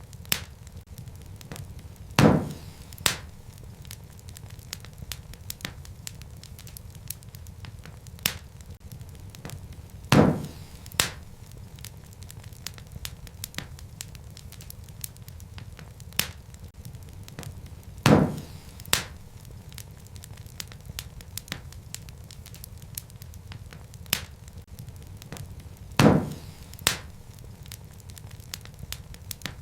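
Wood fire crackling in a fireplace: a steady low rumble of flames under a constant scatter of small crackles. Every eight seconds or so a loud pop sounds, followed by a smaller one under a second later, four times over in a regular repeating pattern.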